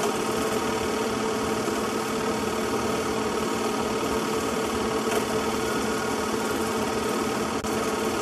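A steady mechanical drone, unchanged in pitch or level, with a brief drop near the end.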